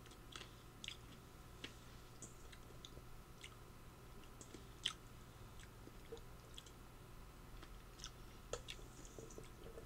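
A person chewing and eating, with faint, scattered mouth clicks and smacks. The sharpest click comes about five seconds in.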